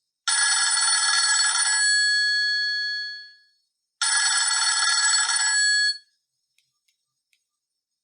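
Maxvi P11 phone's loudspeaker playing a preset ringtone like a ringing telephone bell, twice. The first ring lasts about three seconds and fades out; the second lasts about two seconds and stops abruptly, followed by a few faint clicks.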